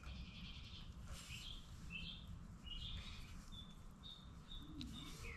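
Birds chirping: scattered short high chirps, then a run of evenly repeated short notes in the second half, over a low steady background rumble. One sharp click near the end.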